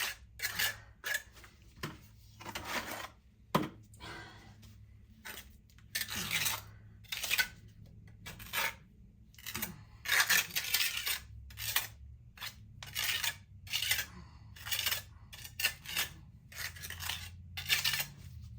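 Steel trowel scraping and pressing rapid-set repair mortar into a spalled concrete-and-stone foundation wall, in many short, irregular strokes with metallic clinks and scrapes.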